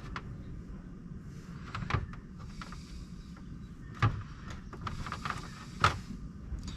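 A few light knocks and clicks as small chainsaw fuel-system parts and hoses are handled and set down on a workbench, over a steady low hum.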